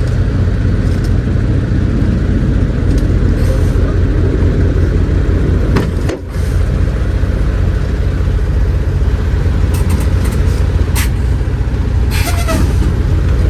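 Semi-truck diesel engine running with a steady low rumble, briefly dipping about six seconds in.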